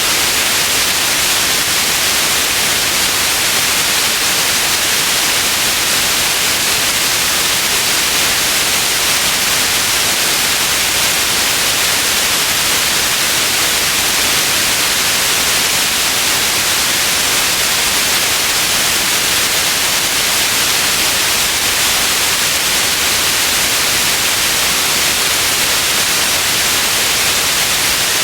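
Steady hiss of generated white noise, bright and even with most of its energy in the upper range, unchanging throughout.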